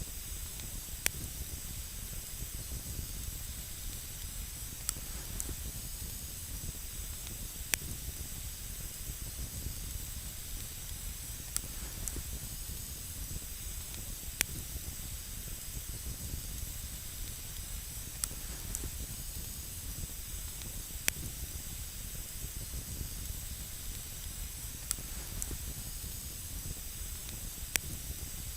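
Wood campfire burning with a steady hiss and scattered sharp crackles, a single pop every second or few.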